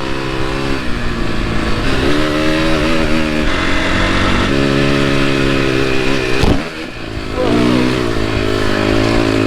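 KTM dirt bike engine running under load on a trail ride, its revs rising and falling. The throttle shuts off briefly about six and a half seconds in, then the engine picks up again.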